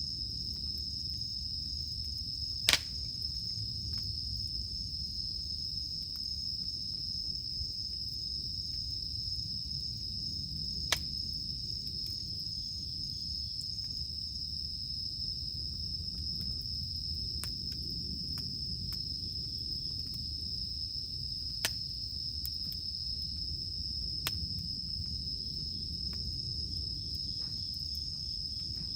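Campfire burning with a low rumble and a few sharp crackling pops, under a steady high-pitched drone of insects.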